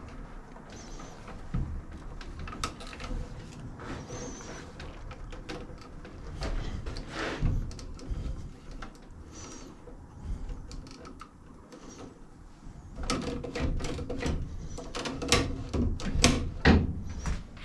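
Hand-work noises on the mower's self-propel drive: scattered clicks, scrapes and knocks of tools and metal parts being handled, with a quick run of sharper knocks near the end.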